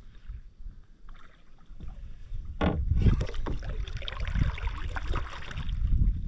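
Canoe being paddled: paddle strokes swishing and splashing in the water, with a single knock about two and a half seconds in, over a low rumble.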